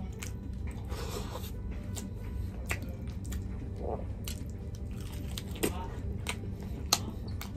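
Close-miked eating of rice and chicken curry by hand: wet chewing and mouth smacks with scattered sharp clicks, the loudest near the end, over a steady low hum.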